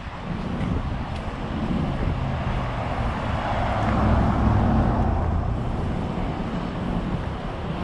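Street traffic: a motor vehicle's engine running over a steady roadway hum, swelling to its loudest about halfway through as the vehicle passes close, then easing off.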